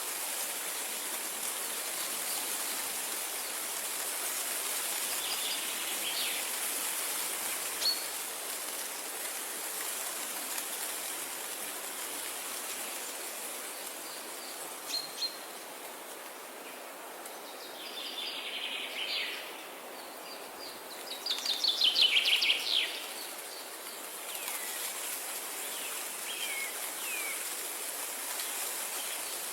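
Wild birds chirping and singing over a steady hiss of outdoor background noise. The loudest is a rapid run of high notes about twenty-one to twenty-three seconds in, with shorter chirps scattered before and after.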